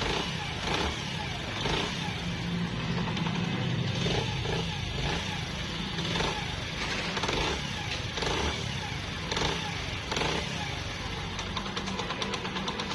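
Honda CD 70's small single-cylinder four-stroke engine running steadily after its worn head camshaft has been replaced. This is the test run to check that the engine noise is gone.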